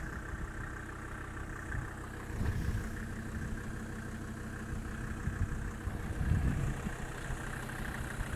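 Mercedes OM605 2.5-litre five-cylinder turbo diesel running steadily, with a few low thumps around the middle.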